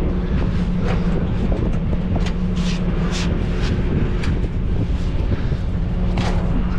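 Semi truck's diesel engine idling steadily, with a handful of short, sharp clanks and knocks scattered through it from hoses and fittings being worked at the tanker.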